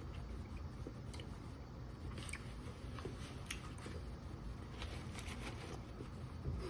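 A person biting into and chewing Canadian bacon slices on bread, with small wet clicks and crunches of chewing at uneven intervals.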